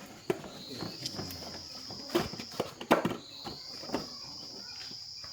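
A steady, high insect drone that swells up into pitch twice, about a second in and again about three seconds in. Over it come scattered sharp knocks and clicks, the loudest about three seconds in.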